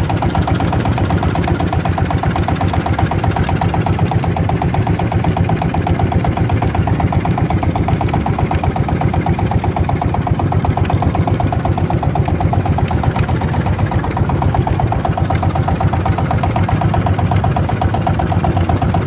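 A small engine running steadily at an even idle-like speed, with a fast regular pulse and no change in pitch.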